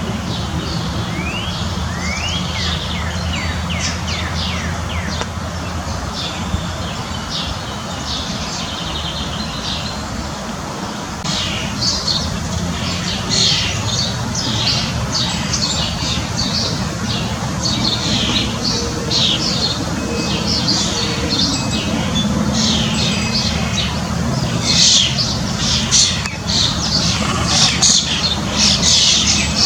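Many small birds chirping and calling, busier from about eleven seconds in, over a steady low rumble.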